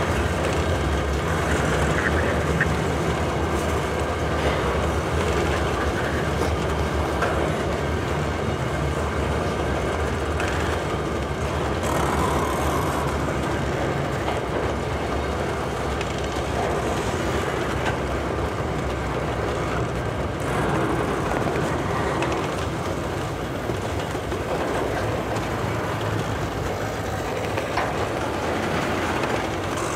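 Covered hopper cars of a loaded potash freight train rolling past, a steady noise of steel wheels on rail as the train slows for a stop.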